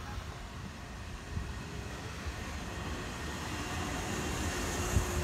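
Nishitetsu 5000 series electric train running past close by, its wheels rumbling on the rails and growing steadily louder. A steady hum comes in about halfway, and there is a single thump near the end.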